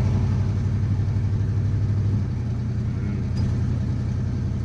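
Old Chevy pickup's engine running steadily, heard from inside the cab as a low drone that eases off slightly about two seconds in.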